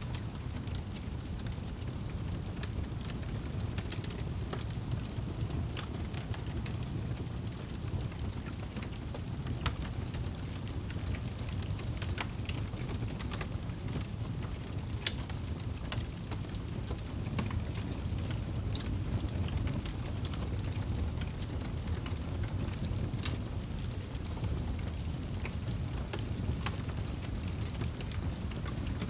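Fireplace fire crackling: a steady low rumble of flames with scattered sharp pops and snaps at irregular moments.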